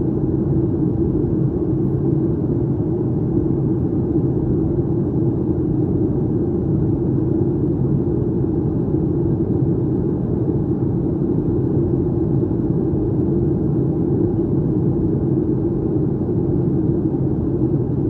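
Steady cabin noise of a Boeing 737-900ER in flight: the low rumble of the engines and the rush of air over the fuselage, heard from a seat near the rear of the cabin.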